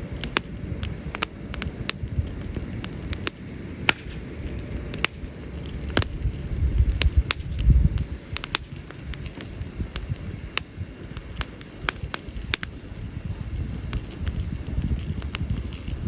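Wood campfire crackling, with irregular sharp pops and snaps of burning logs over a low rumble that swells about halfway through.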